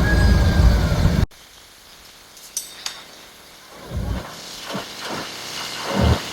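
Heavy diesel earthmoving machinery rumbling loudly, cut off abruptly about a second in. After it, a much quieter stretch with two sharp clicks and a few low, rising-and-falling engine surges.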